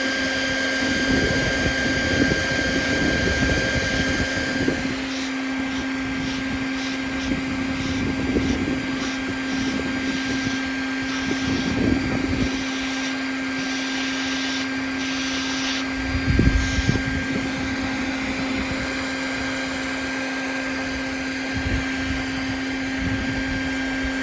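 A vacuum motor running steadily with an even hum, with irregular rumbles of wind or handling on the microphone, the heaviest about two thirds of the way through.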